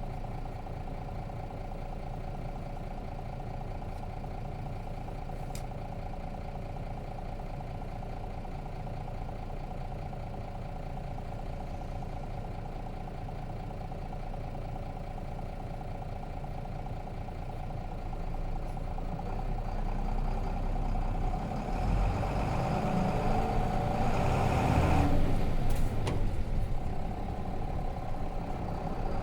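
Nissan Diesel RM bus's FE6 diesel engine, heard from inside the cabin, idling steadily at a stop. About 18 seconds in it rises as the bus pulls away and runs loudest a few seconds later, with a short drop near the end as at a gear change.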